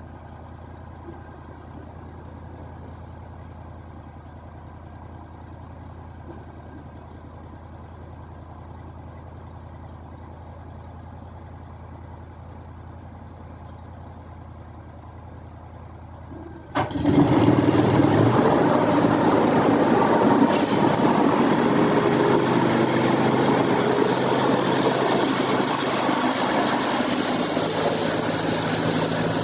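A machine's engine runs steadily at low power. About 17 seconds in, a much louder machine noise starts abruptly and keeps going steadily: a rushing sound with a steady whine in it, typical of sawmill machinery running or cutting.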